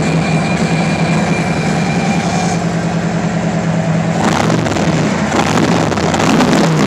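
Harley-Davidson 114 V-twin idling steadily through its stock mufflers, loud; the mufflers have had holes drilled around the inner tube's support plate to free up the exhaust.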